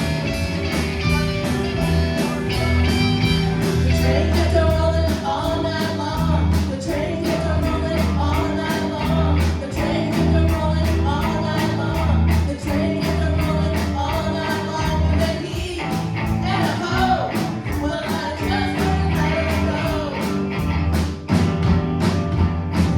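Live rock band playing an uptempo song with electric guitar and a steady, driving drum beat.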